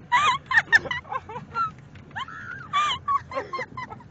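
People laughing hard: high-pitched, cackling bursts of laughter and squeals in quick runs, with short pauses between.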